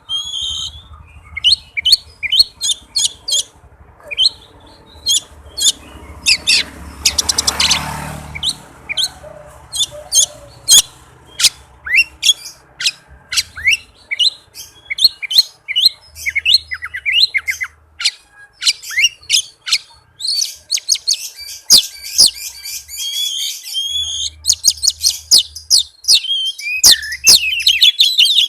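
Oriental magpie-robin singing a fast, tightly packed song of sharp chirps and whistled notes. There is a harsh rasping burst about seven seconds in, and the notes crowd into rapid trills near the end.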